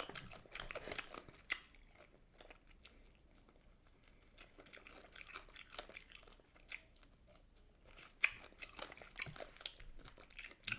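A person chewing crunchy food close to the microphone: scattered crisp crunches and mouth clicks, with sharper crunches about a second and a half in and again near eight seconds.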